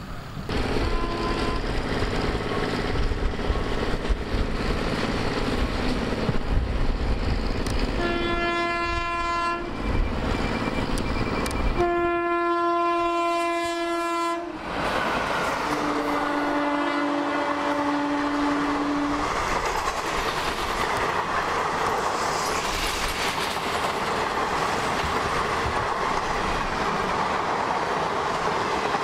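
Electric locomotive hauling a passenger train, sounding its horn three times: two long blasts a few seconds apart, then a third, lower-pitched one. Then the coaches roll past with steady wheel clatter.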